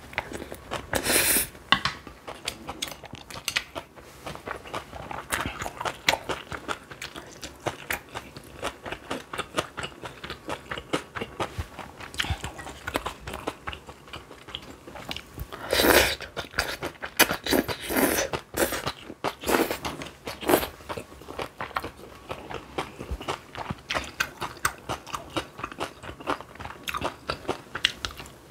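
Chewing and crunching of braised young-radish (yeolmu) kimchi, a rapid run of wet crunches with a few louder bites, the loudest about a second in and again around sixteen seconds in.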